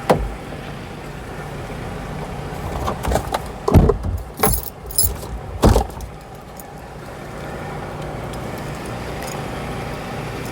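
A bunch of keys jangling as they are picked up and handled, with several knocks and clicks in the middle, over the steady hum of a car.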